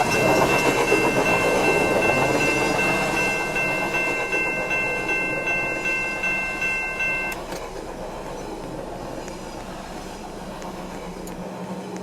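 A passing train sounds a chord horn of three notes held steadily together, which cuts off about seven seconds in. Under it the train runs by with a rhythmic clatter of wheels over rail joints, growing quieter toward the end.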